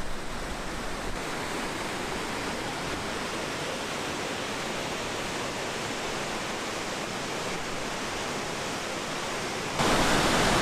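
Steady, even rush of a waterfall's falling water. Near the end it cuts abruptly to a louder, closer rush of water.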